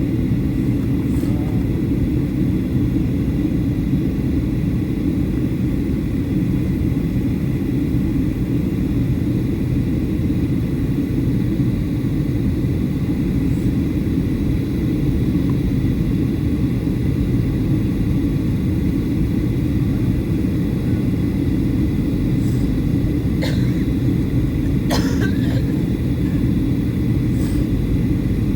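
Steady low drone of a Boeing 737-800 cabin in flight during descent: engine and airflow noise with a faint high steady whine. A few short clicks near the end.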